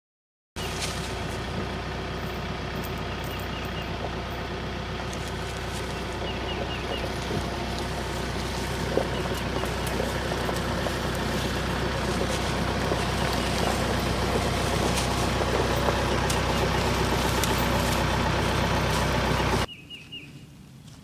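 Tractor engine running steadily, growing slowly louder, then breaking off suddenly near the end.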